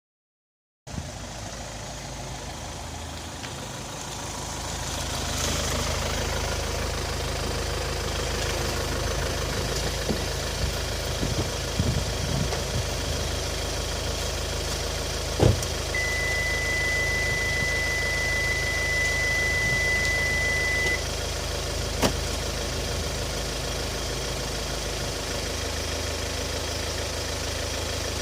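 Kia Sportage (QL) engine idling steadily, growing a little louder a few seconds in. About halfway through there is a sharp click, then a steady high beep for about five seconds, and then another click.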